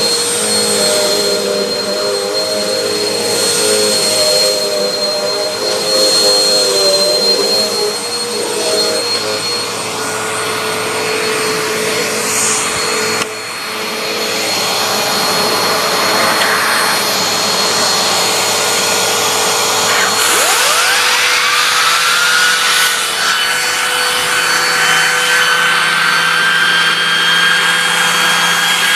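Bissell AeroSwift compact bagless upright vacuum running steadily with a whining motor. Just past two-thirds of the way through, the whine rises in pitch and holds at the higher pitch.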